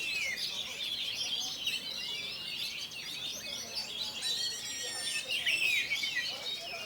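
Oriental magpie-robin (kacer) singing a fast, varied song of chirps and sweeping notes, with a few held whistled notes about four to five seconds in.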